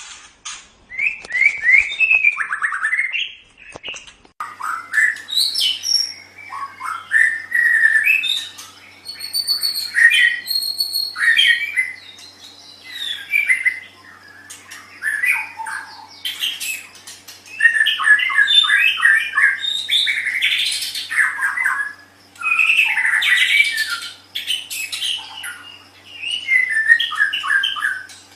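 White-rumped shama (murai batu) singing a varied run of rapid whistled and harsh phrases, with short pauses between them.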